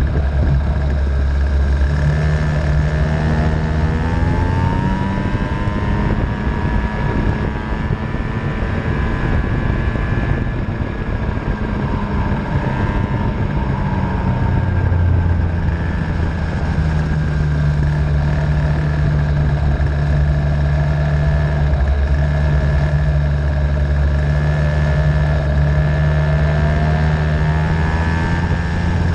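Venom 50cc racing engine running on track, its pitch rising and falling as it revs up and drops off, over a steady low drone.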